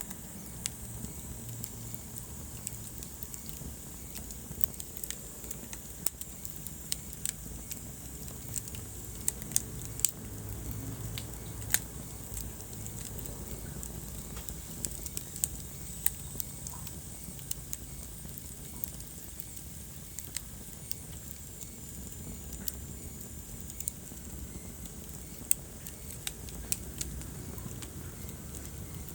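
Wood fire burning in a fireplace, crackling steadily with irregular sharp pops over a low, even rumble of flame.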